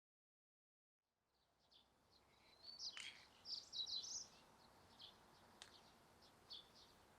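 Silence for about a second, then outdoor ambience fades in with small birds chirping in quick, short, high notes, busiest in the middle, plus a couple of faint clicks.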